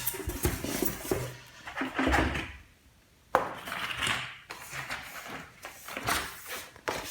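Paper instruction leaflets and a cardboard box insert being handled: rustling with light knocks and a sharp tap about three seconds in.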